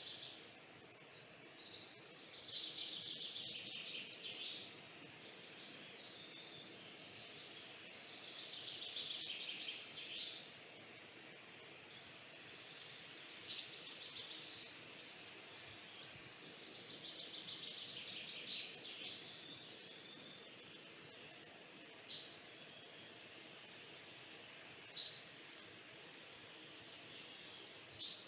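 Birds singing: one bird repeats a short high call every few seconds, a sharp note followed by a brief trill, with faint higher chirps between, over a low steady hiss.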